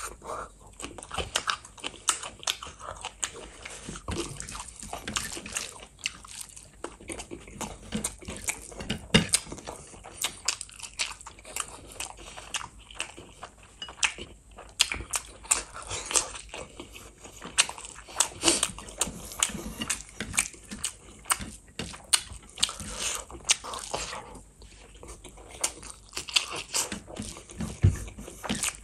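A person chewing and eating spicy chicken feet and gravy-soaked rice by hand, a dense, irregular run of mouth clicks and crunches.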